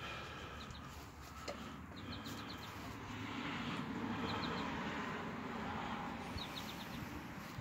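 A bird chirping in quick runs of three to five short high notes, repeated about every two seconds, over a steady outdoor hiss.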